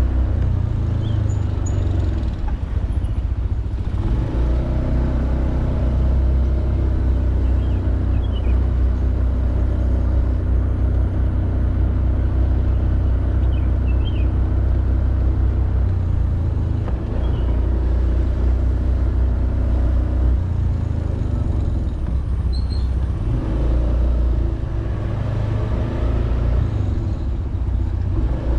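Honda Beat 110cc scooter's single-cylinder four-stroke engine running steadily on the move, heavy in the low end, with a few faint high chirps over it.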